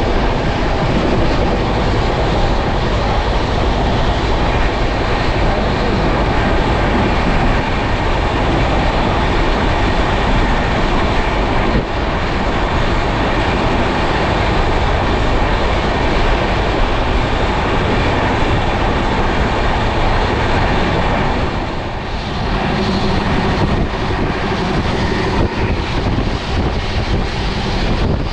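Passenger train running at speed, heard from aboard: a loud, steady rush of wheel-on-rail and air noise. It eases briefly about three quarters of the way through.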